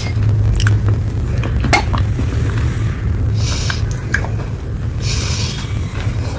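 Baked clay and slate pencil being bitten and crunched: a few sharp clicks, then short crisp crunches about every second and a half. A steady low hum runs underneath.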